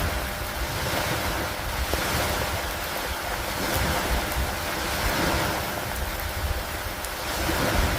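Steady storm ambience of rain and wind over lake water: a constant hiss that swells and eases every two to three seconds, with a low rumble underneath.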